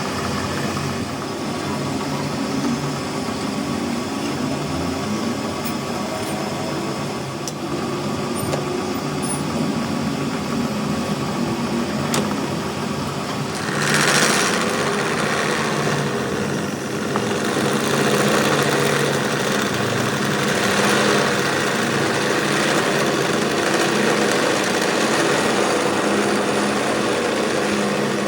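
A small machine running steadily, with a brief louder hiss about halfway through and a rougher, noisier sound from a little later on.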